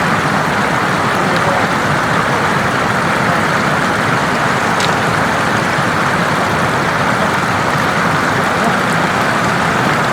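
Floodwater rushing steadily, a loud continuous wash of noise.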